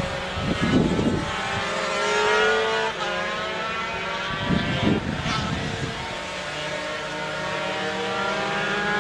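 Several racing motorcycle engines at full throttle on a race track, their notes rising and falling as the bikes accelerate and shift gear, one climbing to a peak about two seconds in.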